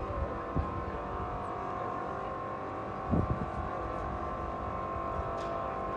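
An engine running steadily with a constant hum, and a short thump about three seconds in.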